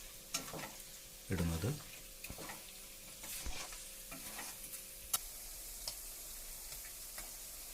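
Chicken pieces with green chillies and ginger-garlic paste frying in a pan, a faint steady sizzle. A few sharp clicks of a utensil against the pan come in the middle and second half as tomatoes go in.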